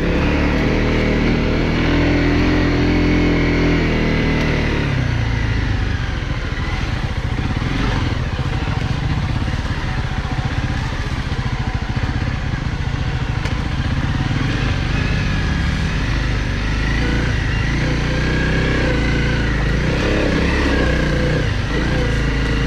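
Honda CRF250L Rally's single-cylinder four-stroke engine running as the motorcycle rides a trail. The engine note is clear for the first few seconds, then mixed with a steady noisy hiss.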